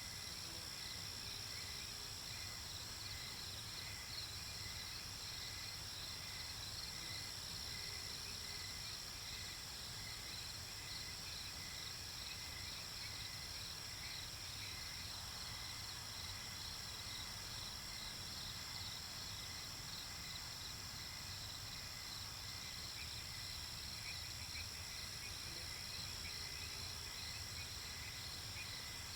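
Night-time nature ambience: a steady chorus of crickets and other insects, with fast, evenly pulsing chirps over a continuous high trill.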